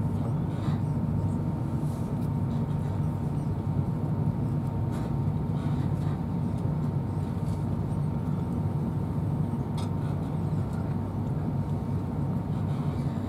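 Steady low rumble of a Class 43 HST (InterCity 125) passenger coach running along the track, heard from inside the carriage, with a faint steady whine and a few faint clicks.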